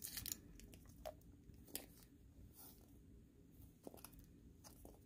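Near silence, with a few faint clicks and crinkles as a surprise toy egg's packaging is handled and opened.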